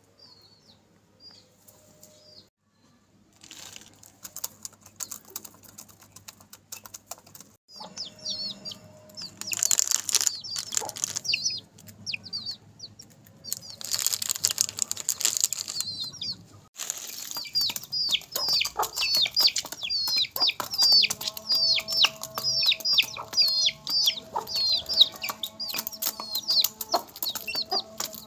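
Chicks peeping rapidly, a steady run of short falling chirps that thickens over the second half, over many small pecking clicks. Two loud rustling bursts come about ten and fifteen seconds in.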